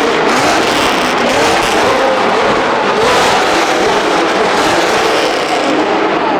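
Loud car engines revving, their pitch rising and falling again and again over a dense exhaust noise, as cars pull out of a car meet.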